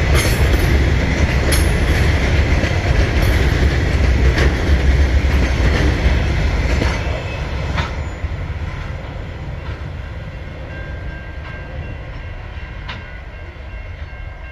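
Freight train of container flat wagons rolling past: a steady heavy rumble with occasional sharp clicks of wheels over rail joints. It fades away from about seven seconds in as the end of the train goes by.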